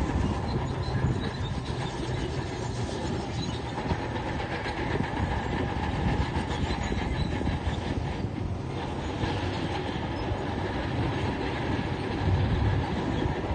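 Tracked heavy machine working: the diesel engine runs steadily under a continuous clanking and squealing of steel crawler tracks, a little louder near the end.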